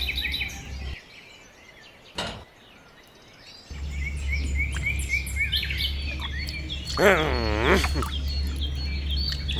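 Birds chirping in a quick run of short repeated calls, over a steady low hum. About seven seconds in comes a wavering, pitched cry.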